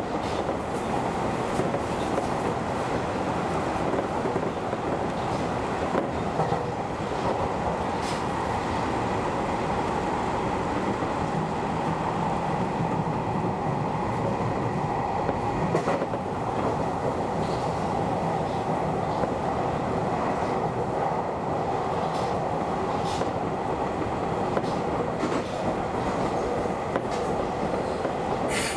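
Keio Inokashira Line train running at speed, heard from the driver's cab: a steady rumble of wheels on rail with a faint steady whine, broken by a few sharp clicks several seconds apart.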